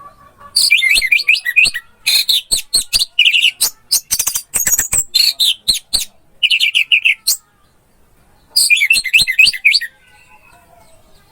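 Orange-headed thrush (anis merah) singing: loud, rapid phrases of sharp chattering and whistled notes, in several bursts with a short pause before a last phrase near the end.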